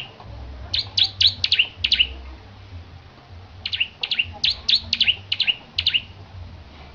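Bar-winged prinia (ciblek) singing: two quick runs of sharp, high, falling chip notes, one about a second in and a longer one about three and a half seconds in.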